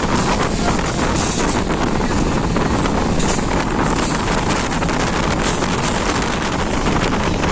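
Moving passenger train heard from an open window: wind rushing over the microphone over the train's steady rumble and the irregular clatter of its wheels on the rails.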